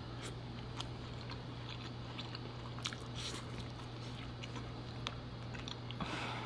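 A person chewing a mouthful of soft food close to the microphone, with small wet mouth clicks, over a steady low hum.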